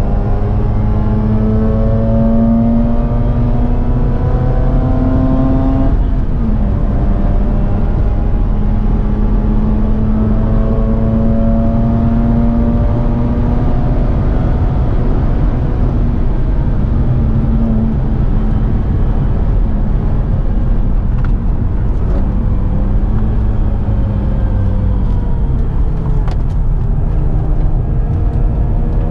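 Mazda RX-8's twin-rotor Wankel rotary engine under hard load, heard from inside the cabin: its note climbs steadily in pitch through the revs over several seconds at a time, drops back a few times and climbs again, over a heavy rumble of road and tyre noise.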